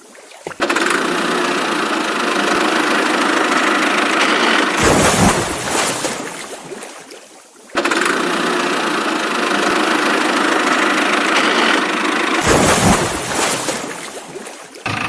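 Engine start-up and running sound played twice in identical cycles: each time it starts suddenly, runs steadily for about four seconds with a thin sound lacking low bass, gives a brief louder burst and fades out.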